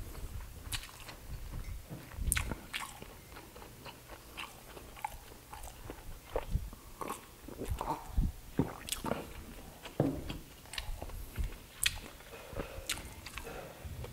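Close-miked eating: chewing, lip-smacking and crunching on grilled skewered meat and rice, as a string of irregular wet mouth clicks. About halfway through he drinks from a glass of water.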